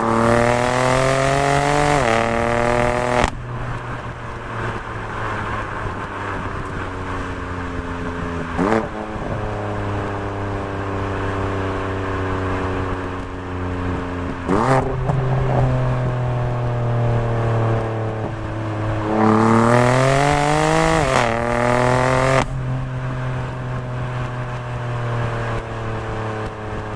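BMW M4's twin-turbo straight-six running through an Akrapovic titanium mid pipe and Eisenmann GT4 axle-back exhaust, holding a steady engine note. It pulls hard with a rising pitch at the start and again about 19 seconds in. There are two short rev blips in between.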